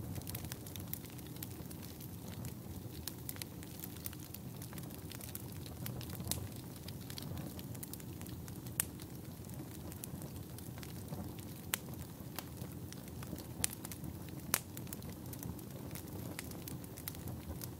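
Wood fire burning in a fireplace: a steady low rumble of flames with frequent crackles and scattered louder pops.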